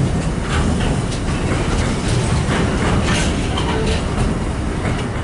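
Freight train passing close by, its wagon wheels clattering over the rail joints in a dense, steady rumble with sharp clicks.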